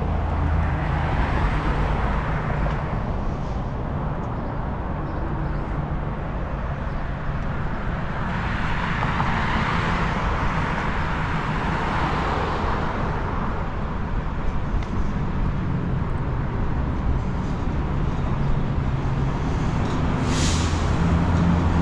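Downtown street traffic: vehicle engines running, with a car passing through the middle. Near the end comes a short air hiss from a city bus.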